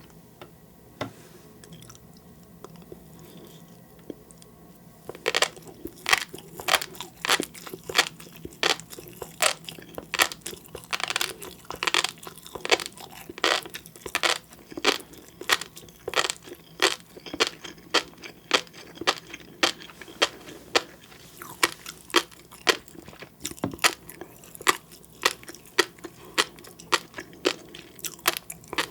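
Close-miked chewing of seafood, each chew a sharp crackle, about two a second. It starts about five seconds in, after a few faint mouth clicks.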